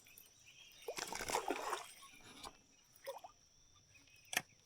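Creek water splashing and dripping in short bursts, with a sharp click shortly before the end.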